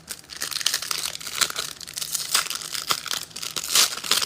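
Trading-card pack wrapper crinkling and tearing as the pack is ripped open, a dense run of crackles.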